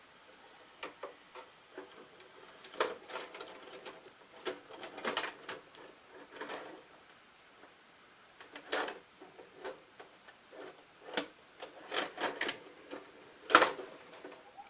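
Irregular plastic clicks and rattles from handling a VHS cassette and its tape, with a sharper click near the end.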